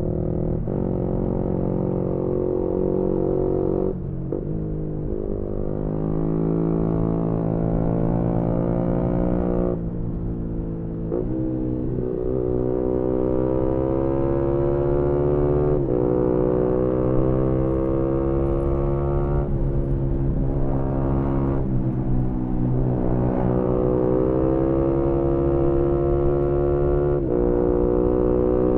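Onboard sound of a 2018 Yamaha MT-125's single-cylinder four-stroke engine through an aftermarket GPR exhaust, climbing in pitch under acceleration, with a short dip at each gear change or throttle lift, about seven times. Wind and road rumble run underneath.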